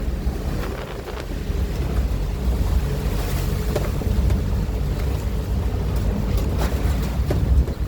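Strong storm wind in heavy rain, gusting and buffeting the microphone as a steady low rumble under a rushing hiss, with a few sharp ticks scattered through.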